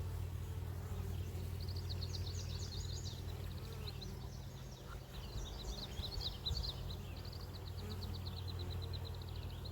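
Steady low hum of honeybees from an open hive, with a songbird singing rapid high trills several times.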